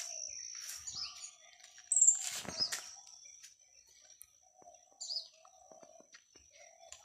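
Garden birds chirping: sharp high chirps about two and five seconds in, a lower wavering call on and off, over a steady high-pitched tone. A brief rustle about two seconds in is the loudest moment.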